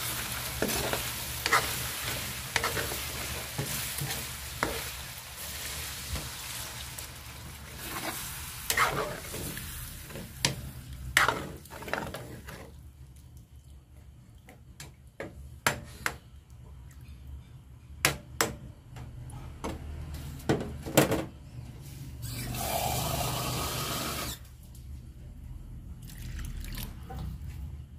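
Chicken giblets and eggs sizzling in a wok while a metal spatula stirs and scrapes, knocking against the pan. The sizzle dies down about halfway once the pan is saucy, leaving scattered spatula clacks. Near the end water is poured into the pan with a brief rush.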